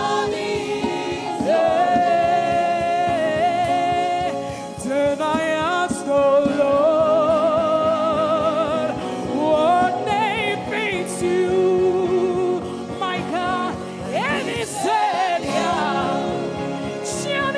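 Live gospel worship music: a lead voice sings long, wavering notes and runs over steady instrumental accompaniment, with other voices joining.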